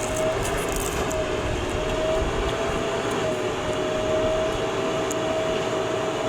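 JCB 3DX backhoe loader's diesel engine running steadily under working load, with a steady high whine over the engine's rumble.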